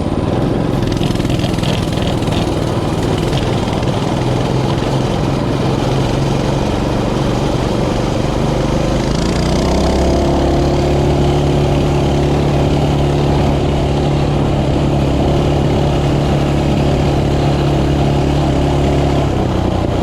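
Mini bike's small engine running while riding. The engine note wavers through the first half, then holds at a steady pitch from about halfway.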